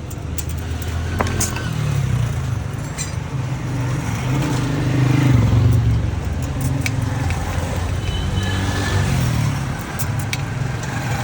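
A motor vehicle's engine running close by, a low rumble that grows to its loudest about halfway through and then eases, with a few light clicks over it.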